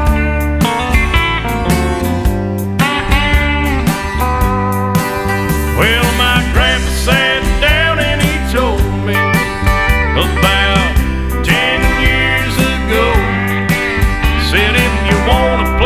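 Country music playing: an instrumental stretch led by steel guitar with gliding notes, over a steady beat and bass.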